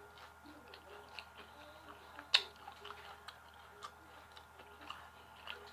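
A person chewing crunchy fried chicken close to the microphone: a scatter of small crisp crunches and mouth clicks, with one sharper, louder snap about two and a half seconds in.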